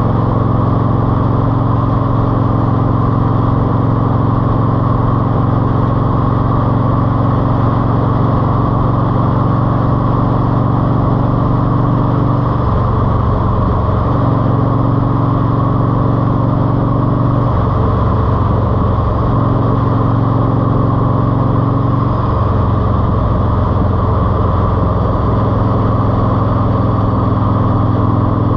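Mercury Cougar Eluder GT's engine running through an aftermarket TAB exhaust with 2.5-inch baffles, giving a steady, loud exhaust note. Several times the note breaks up briefly and then settles at a different pitch.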